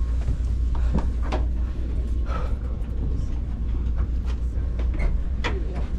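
Steady low hum inside a KTX high-speed train carriage, with a few faint short knocks and rustles over it.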